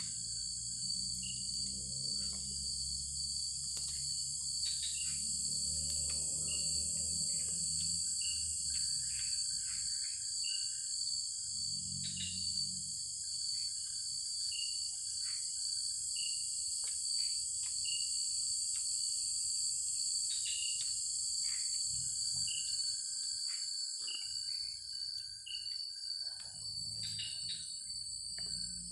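Forest insect chorus: crickets and other insects keeping up a steady high buzz, with many short chirps repeating over it.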